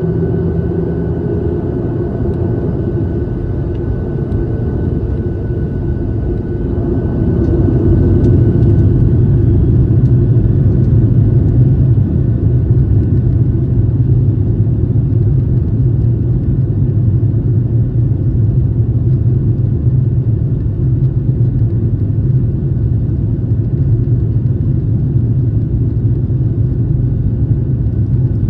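Airliner engine and airframe noise, a steady low rumble that grows louder about seven seconds in and stays up.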